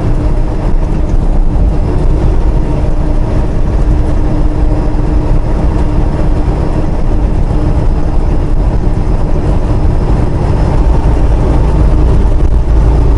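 Steady engine drone and road noise heard inside a semi-truck's cab while it is driving, with a constant low hum.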